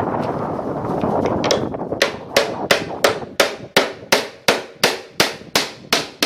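Hammer driving nails into wood: about a dozen sharp, evenly spaced blows, roughly three a second, beginning about two seconds in after a stretch of steady noise.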